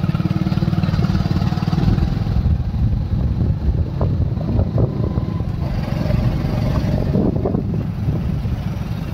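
A small motorcycle or scooter engine running steadily while riding along a road, with wind and tyre noise.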